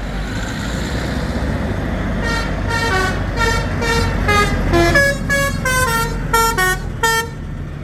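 A musical vehicle horn playing a tune of about fifteen short notes at changing pitches, over a steady low engine rumble.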